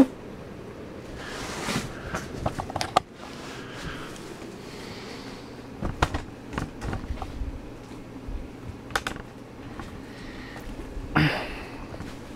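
Hunter Coastal Breeze ceiling fan running with a steady low hum, broken by scattered clicks, knocks and short rustles, the loudest about a second from the end.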